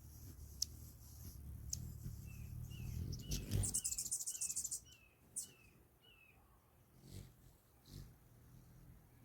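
Hummingbird sounds: sharp high chip notes, then in the middle a loud burst of rapid, high buzzing with a run of about ten short falling chirps, roughly two a second.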